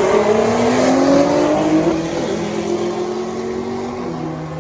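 A drag racing car accelerating hard down the strip, its engine note climbing in pitch, loudest about a second in and then fading as the car pulls away.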